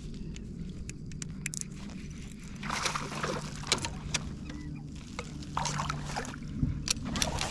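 Water sloshing against a kayak hull, with scattered small clicks and knocks of gear on the boat.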